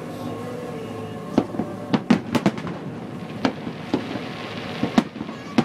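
Fireworks bursting overhead: sharp bangs at irregular intervals, several close together about two seconds in and more near the end, with a spell of hiss about four to five seconds in.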